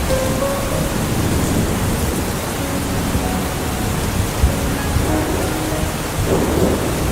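Steady heavy tropical rain with a low rumble underneath, and a single sharp tap about four and a half seconds in.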